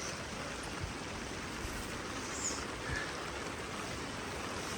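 Steady, even hiss of light rain falling, with a few faint drips and taps.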